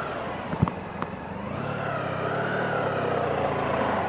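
Honda Pan European ST1100's V4 engine running on the move, its note growing louder and rising a little after about two seconds. Two short clicks come in the first second.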